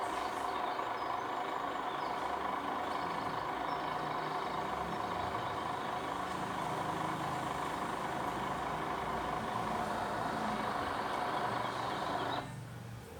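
A heavy engine running steadily with a constant whine, stopping abruptly near the end.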